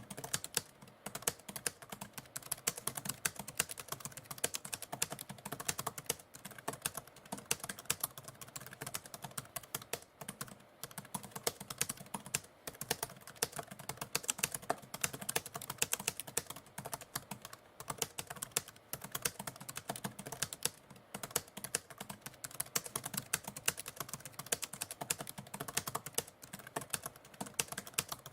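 Typewriter keys being struck in continuous typing: a rapid, steady stream of clacks.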